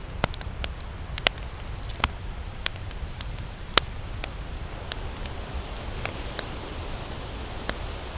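Wood campfire crackling, with irregular sharp pops and snaps, about a dozen, over a steady low rumble.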